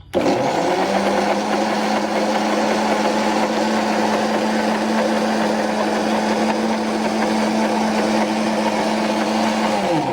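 Electric blender motor spinning up with a rising whine, running at a steady pitch for about ten seconds, then winding down, while it blends a thick tonnato sauce.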